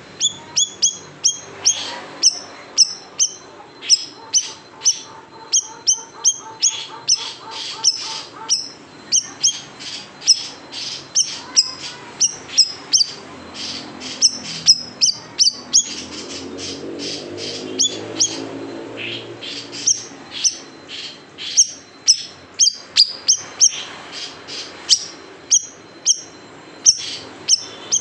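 Siri-siri bird (black-naped monarch) giving its sharp 'tembakan' calls: quick runs of short, high, downward-sweeping chirps, several a second, repeated over and over.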